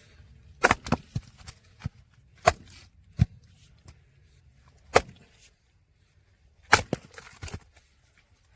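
Firewood being split: five sharp cracks of blows on logs, a second or two apart, some followed by smaller knocks as pieces fall.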